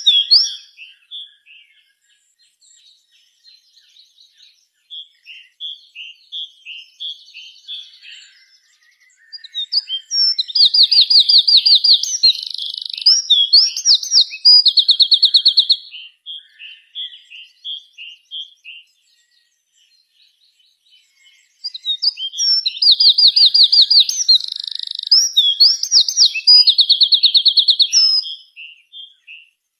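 A songbird singing: long, loud song phrases of rapid high trills and repeated notes, in two bouts a few seconds long, with softer scattered chirps in between.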